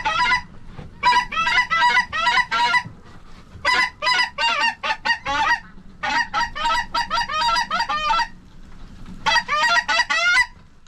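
Goose honking and clucking in quick runs of short calls, about five runs with brief pauses between them.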